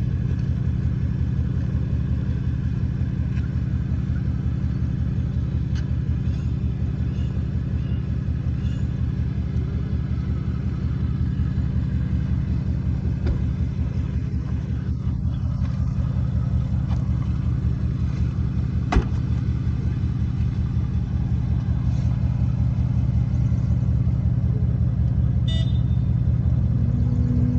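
Ford Mustang's engine running steadily while the car is driven, its level rising slightly over the last few seconds, with one sharp click about two-thirds of the way through.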